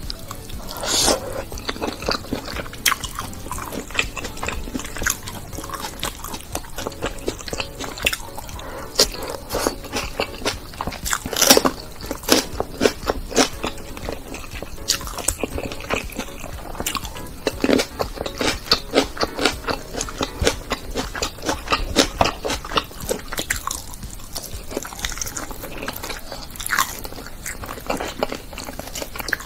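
Close-miked eating sounds: wet chewing and biting of curry-coated meat and rice eaten by hand, as many quick, irregular smacks and crunches.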